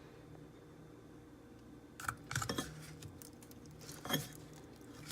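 Hard plastic clicks and knocks as a Whirlpool dishwasher wash motor is pressed and twisted into its sump housing: a quick cluster of clicks about two seconds in, then a single sharper knock about four seconds in.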